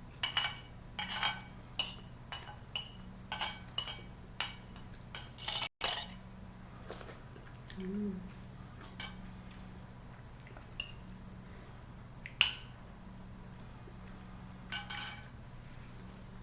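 Cutlery clinking against dishes while eating: a quick run of sharp, ringing clinks for the first six seconds, then a few scattered ones, the loudest about twelve seconds in. A steady low hum sits underneath.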